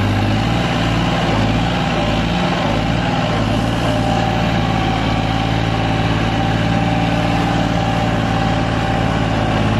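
Tractor diesel engine running at steady revs.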